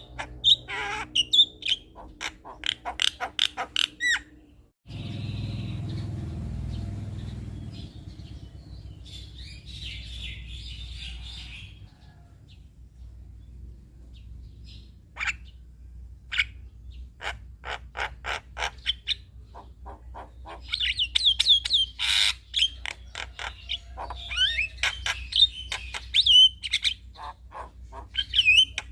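Male Javan myna singing: rapid sharp clicking notes and chattering warbles. The song breaks off about five seconds in and resumes in scattered sharp calls, growing into dense warbling chatter in the second half.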